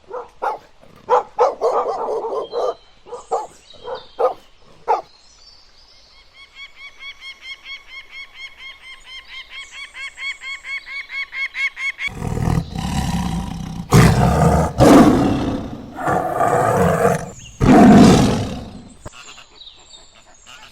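A sequence of animal calls: short sharp barking calls, then a fast, even, high-pitched rhythmic chatter that grows louder, then several long, loud, deep roars.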